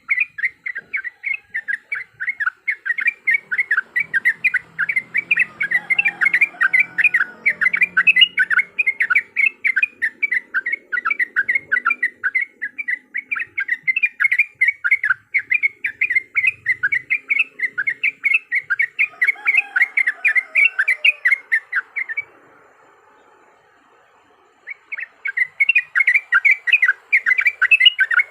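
Yellow-vented bulbul (trucukan) song: a fast, loud run of short chirps about four a second, the 'cuk cuk' fighting chatter used as a lure call. It breaks off about 22 seconds in and resumes some two seconds later.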